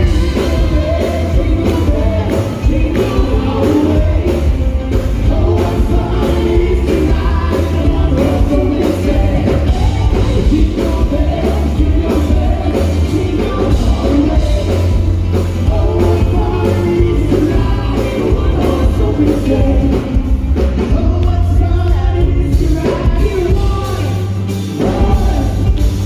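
Live Christmas song performed by singers with an amplified band, with a strong bass and a steady beat.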